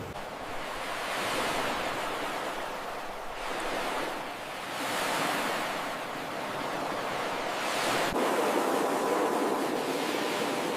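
Ocean waves breaking on a beach, the surf swelling and easing every few seconds.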